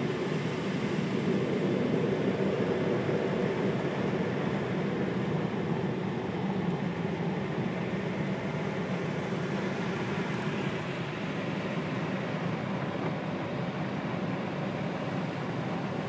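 Automatic car wash's air-dryer blowers running, a steady loud rush of air heard from inside the car.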